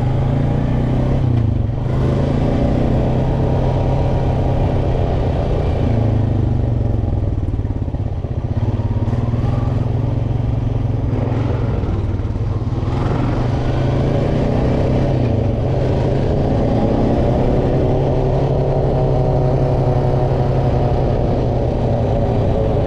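Off-road vehicle engine running continuously while riding a trail, its pitch rising and falling with changes in speed, with a noticeable rise about halfway through.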